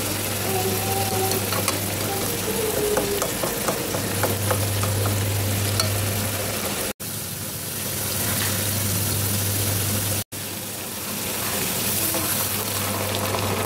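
Dried shrimp with garlic and chili frying in hot oil in a pan, sizzling steadily. Through the first half a wooden utensil stirs and scrapes the mixture against the pan. The sound cuts out twice, very briefly.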